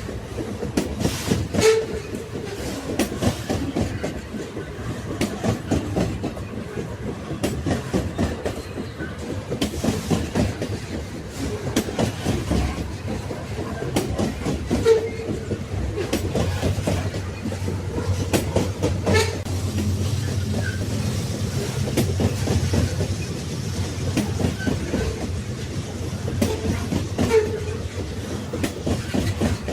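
Railway carriages rolling along the track: a steady rumble of wheels on rail, broken by irregular clicks and knocks as the wheels pass over rail joints. The low rumble grows heavier in the second half.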